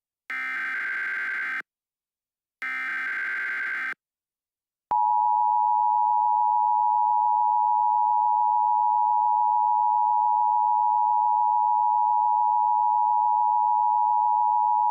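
Two short buzzy bursts of Emergency Alert System SAME header data. About five seconds in, the steady two-tone EAS attention signal starts and holds loud, announcing an alert.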